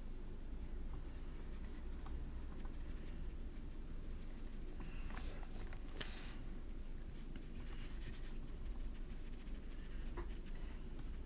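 Soft scratching and brushing strokes of art tools on paper over a steady low hum, with two brief louder rustles about five and six seconds in.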